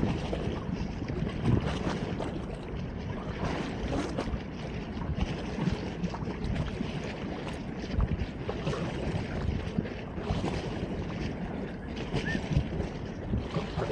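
Wind buffeting a phone's microphone: an uneven, gusting rush of noise, heaviest in the low end.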